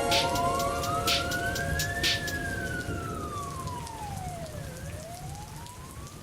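Electronic music fading out: a synthesized tone sliding slowly up and down like a siren over a hiss of rain-like noise, with a couple of sharp hits in the first two seconds.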